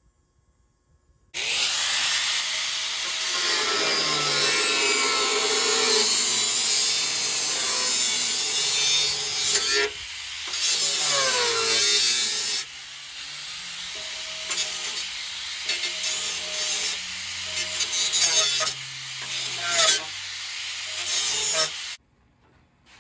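A power tool cutting slits into a sheet-metal tailgate. It starts suddenly, and its motor pitch sags and recovers as it cuts. It gets quieter about halfway through and cuts off suddenly near the end.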